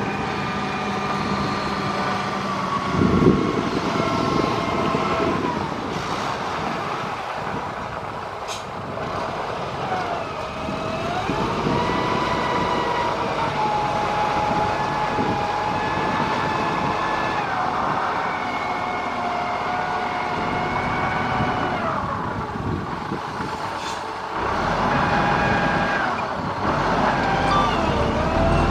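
Heavy diesel engine of a motor grader running, with a high whine whose pitch dips and rises several times as engine speed changes. A low thump about three seconds in is the loudest moment.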